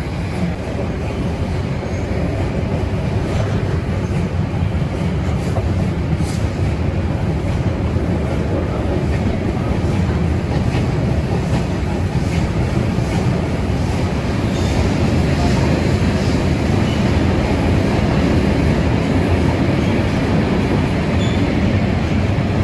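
A train running on rails: a steady low rumble with a few light clicks of the wheels, growing a little louder partway through.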